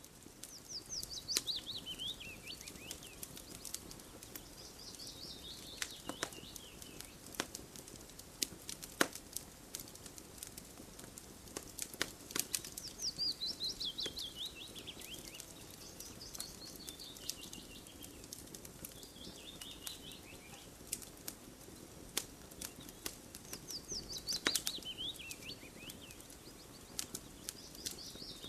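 Campfire crackling with many sharp pops and snaps. A songbird sings over it, a quick run of notes that falls in pitch, repeated about every eleven seconds.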